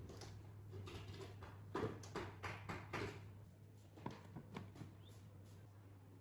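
A series of light clicks and taps, bunched about two seconds in and again about four seconds in, over a steady low hum.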